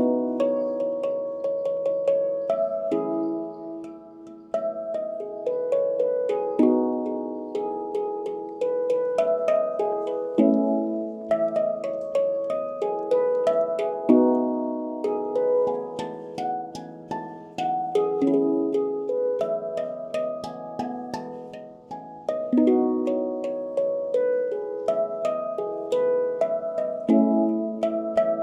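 Handpan played by hand: a flowing melody of struck steel notes, each starting with a light finger tap and ringing on, with short lulls about four seconds in and again near twenty-two seconds.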